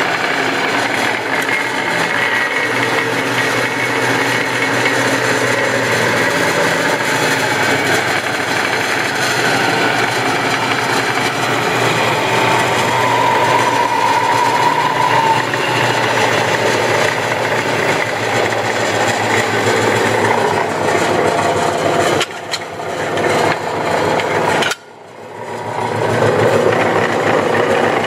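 Clausing 20-inch, 1.5 horsepower drill press running under its own power, a steady motor-and-drive hum with bands that drift slightly in pitch. The loudness drops briefly twice near the end, the second time sharply, then builds back up.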